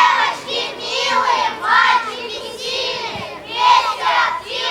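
A group of children's voices in unison, chanting or singing in short rhythmic phrases.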